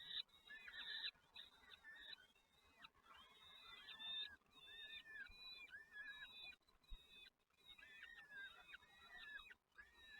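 Nestling birds chirping rapidly and faintly, a dense run of short, high, arched calls several a second, typical of chicks begging for food in the nest.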